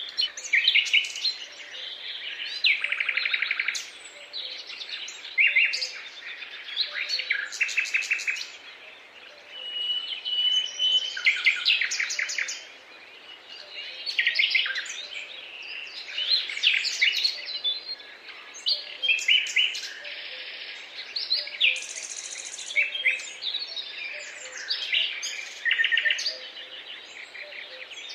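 Several songbirds singing and calling at once: overlapping chirps, fast trills and rapid repeated notes, over a faint steady background hiss.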